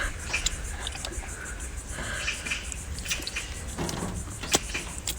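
Scattered small clicks and knocks of cooked seafood and shells being handled and eaten, with one sharp click about four and a half seconds in, over a steady low rumble.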